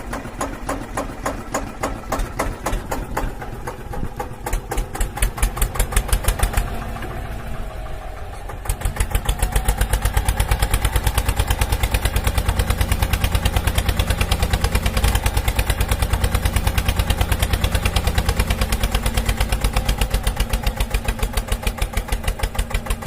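A DIY mini tractor's small motor runs with a fast, even pulsing chug. It gets louder and steadier about nine seconds in.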